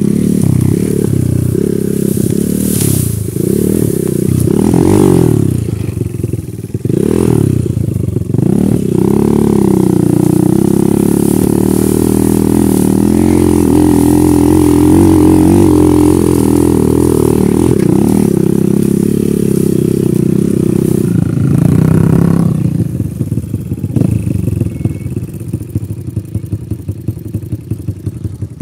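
Dirt bike engine revving up and down under load, then holding a steadier note for several seconds in the middle. Near the end it drops to quieter, uneven low-speed running.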